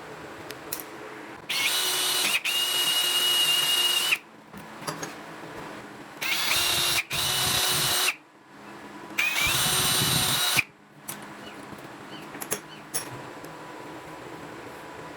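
A small electric power-tool motor running in three bursts of a few seconds each, whining at a high, steady pitch that steps up as each burst starts and stops abruptly.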